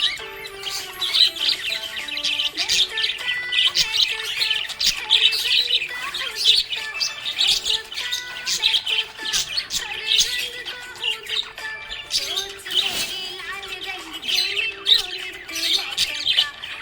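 A flock of budgerigars chirping and chattering continuously in rapid, high twittering calls, with the odd squawk, over a background music track.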